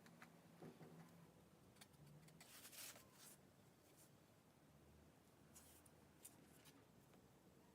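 Near silence, with a few faint short scratching rubs around three seconds in and again near six seconds.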